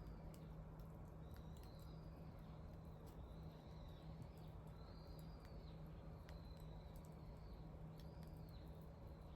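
Wood bonfire crackling faintly, with scattered sharp pops. Over it, high squeaky chirps rise and fall about once a second, and a low steady hum runs underneath.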